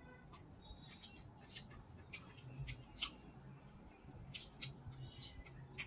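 Close-up eating sounds of a person chewing rice and buffalo meat curry: quiet, wet smacks and clicks from the mouth, a few a second at an uneven pace.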